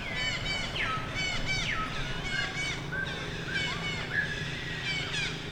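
Baby macaque crying: rapid, repeated high-pitched wavering cries, several a second. A steady low hum runs underneath.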